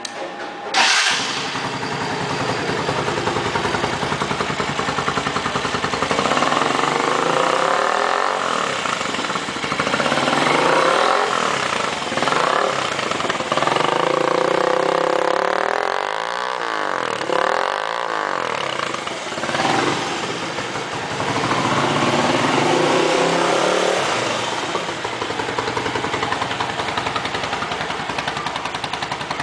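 Dafra Kansas 150 motorcycle's single-cylinder engine, fitted with an aftermarket exhaust, starting about a second in, then revved up and down several times before settling back to idle near the end.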